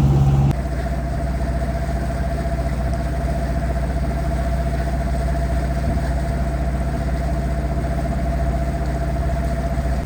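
A boat engine runs steadily, a constant drone with a faint steady whine above it. This is the sailboat motoring along in a calm with no wind. About half a second in, the sound changes abruptly and drops a little, then holds even.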